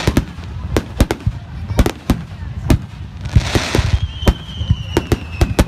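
Fireworks going off in rapid, irregular bangs, several a second, with a brief hissing rush a little past the middle and a thin whistle sliding slightly down in pitch near the end.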